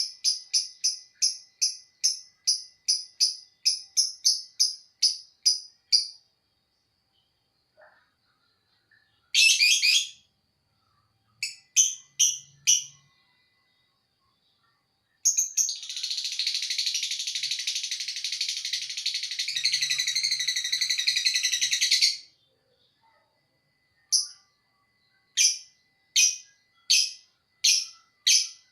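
Lovebird ngekek: a fast run of shrill, evenly repeated calls, about four a second, stops after about six seconds. A few short bursts follow, then one long unbroken chattering trill of about six seconds, the long ngekek that lovebird keepers prize. Spaced single calls come near the end.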